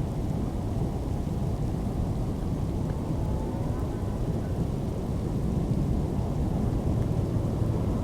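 Steady low rumble of a severe storm, wind and rain, with most of the sound deep and heavy.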